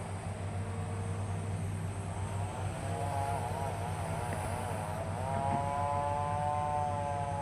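Hitachi excavator working: steady diesel engine hum with a whine over it that wavers in pitch about two seconds in, then holds a steadier, louder tone from about five seconds in, as the hydraulics take load.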